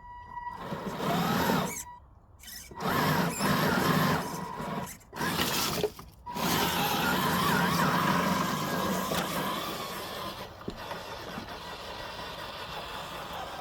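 FMS FJ40 scale RC crawler's electric motor and gearbox whining under throttle, with the tyres working over forest ground. The throttle is released briefly about two, five and six seconds in, then held steadily, tailing off a little near the end.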